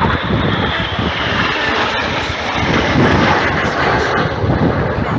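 Jet engine noise from the Red Arrows' BAE Hawk trainers flying past, a loud rushing sound that swells to its peak about three seconds in and then eases a little.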